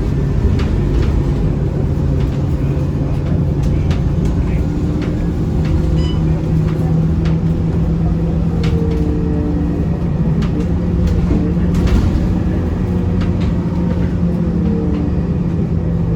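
Cabin sound of a Scania K230UB city bus under way: its diesel engine running steadily with a low hum and rumble, with scattered small clicks and rattles from the interior.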